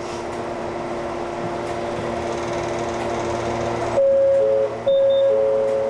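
Ex-Tokyu 7000 series electric train running, with a steady motor whine over wheel and track noise. About four seconds in, a loud held tone starts, with a lower second tone cutting in and out beneath it.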